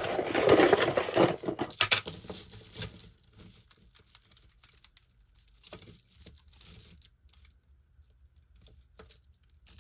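Metal costume-jewelry chains and pieces jingling and clinking as they are handled and set down, loudest in the first couple of seconds, then scattered light clicks.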